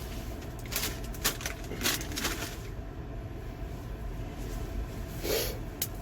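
Chips being eaten: a handful of short crackles and crunches from the chips and their bag, over a steady low hum.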